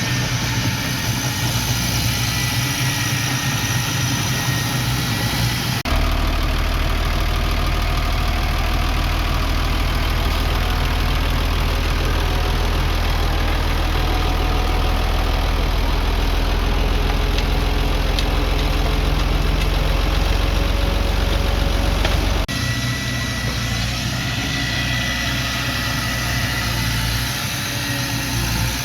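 Diesel engines of heavy earthmoving machinery running steadily. The sound changes abruptly twice, about six seconds in and again about three-quarters of the way through, with a deeper, heavier engine drone in the middle stretch.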